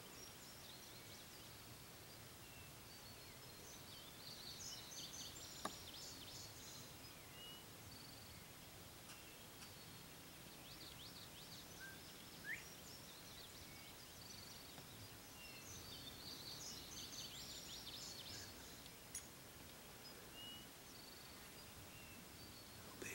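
Faint outdoor quiet with distant birdsong: a high, rapid songbird phrase about four seconds in and again about sixteen seconds in, with a few scattered short chirps between.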